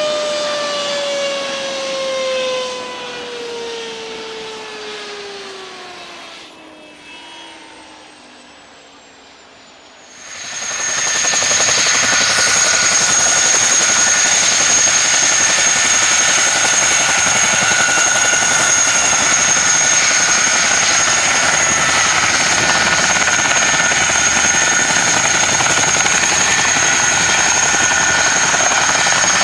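Helicopter engine winding down, its whine falling steadily in pitch and fading over about ten seconds. Then it is abruptly replaced by a loud, steady helicopter engine-and-rotor noise with a constant high whine.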